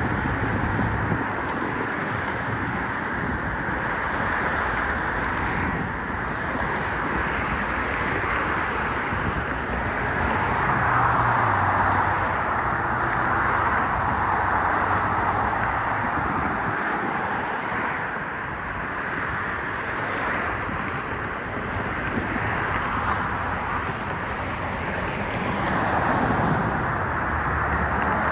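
Steady rush of passing road traffic that swells and fades as vehicles go by, with some wind on the microphone.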